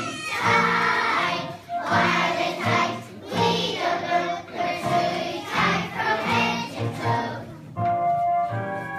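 Children's choir singing a song to a backing track with a steady bass beat. Near the end the voices stop and the instrumental melody carries on.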